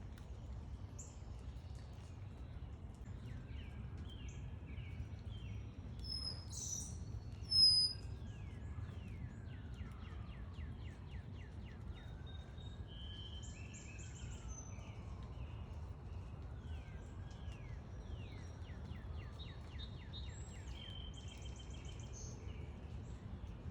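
Backyard songbirds calling and singing, with repeated runs of quick down-slurred notes and one loud, high call about seven seconds in, over a steady low background rumble.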